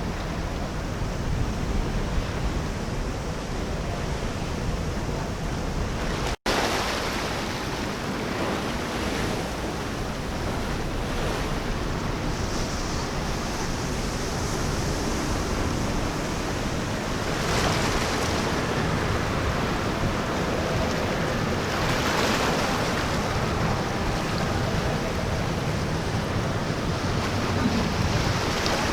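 Ocean surf breaking at an inlet, a steady wash of waves with wind buffeting the microphone. Two louder wave crashes come through, one a little past halfway and another a few seconds later, and there is a brief dropout about six seconds in.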